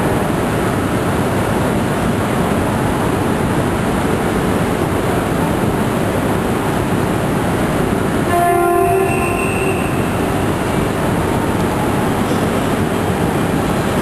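Shinkansen train creeping in to couple, with steady running noise, and a short horn blast about eight seconds in.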